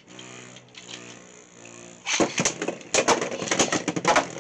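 Beyblade X tops spinning in a plastic stadium with a steady whir. From about two seconds in come rapid sharp clacks and rattles as they collide and hit the stadium walls.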